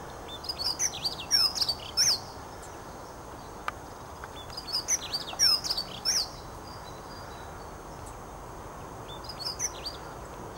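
A small songbird singing: three quick, high, warbling phrases of about two seconds each, separated by pauses of a couple of seconds, the last one shorter and fainter.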